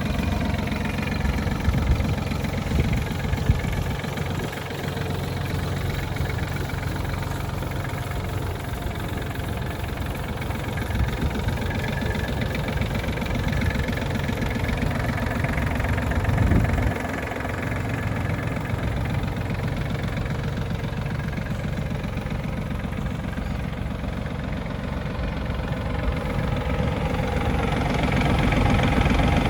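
Iseki TF330 tractor's 1.5-litre three-cylinder E3CD diesel running steadily at idle. It swells briefly about halfway through and grows louder near the end.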